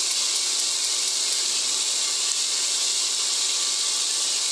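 Smoked sausage and onions sizzling steadily as they fry in a pot.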